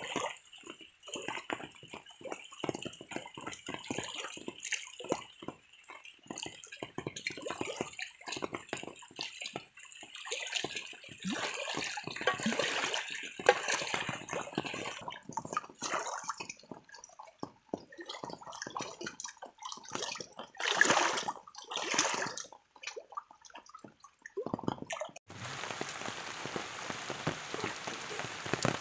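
Water dripping and splashing in irregular, uneven strokes, some louder than others. About 25 seconds in it cuts abruptly to the steady hiss of rain falling on a surface.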